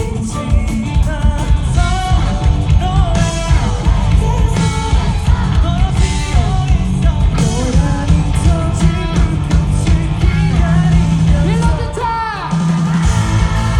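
Live rock band playing a song, with a sung lead vocal over drums, bass and electric guitar, heard through concert hall amplification. About twelve seconds in, the band briefly drops out under a falling pitch sweep, then comes back in.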